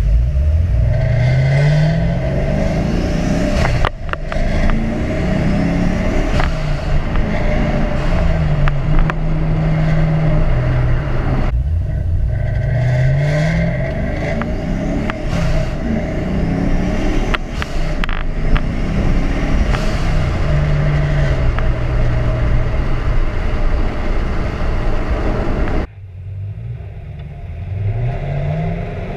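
Turbocharged 2010 Chevrolet Camaro SS 6.2-litre V8 accelerating hard through the gears. The engine note climbs in pitch, holds, drops back at each shift and climbs again. Near the end it eases off briefly, then starts rising once more.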